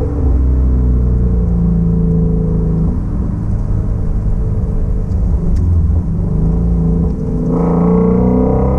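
2016 Shelby Mustang GT350's 5.2-litre flat-plane-crank V8 and exhaust, cruising at low, steady revs with a deep rumble. Its pitch drifts a little. Near the end the throttle opens and the note grows louder and fuller.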